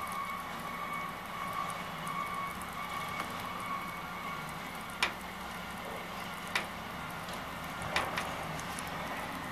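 A vehicle engine running steadily with a high whine that fades out a few seconds in, and four sharp clicks in the second half.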